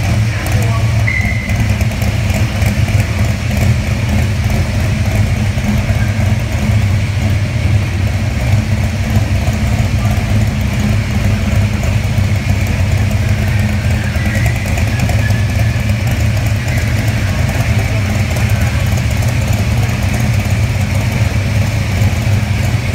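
Hot-rodded Willys coupe's engine idling loudly as the car creeps along, a deep, steady but uneven rumble.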